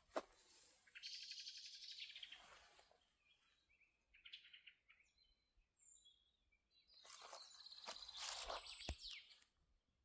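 Small birds singing faintly: a fast trill, a second shorter trill and a few high chirps. Footsteps come in about seven seconds in, with one sharper knock near the end.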